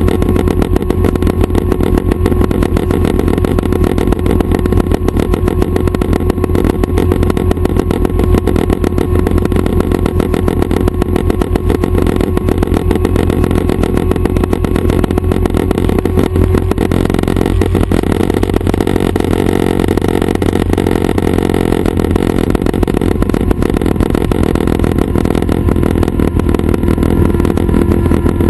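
Schweizer 269 helicopter running steadily: piston engine and main rotor, with a fast even rotor beat. The tone shifts slightly about two-thirds of the way through.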